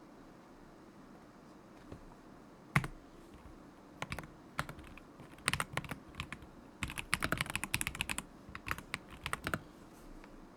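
Typing on a KZZI K75 Pro mechanical keyboard with Moment linear switches: a single sharp click just under three seconds in, then scattered key presses and a quick burst of fast typing that stops shortly before the end.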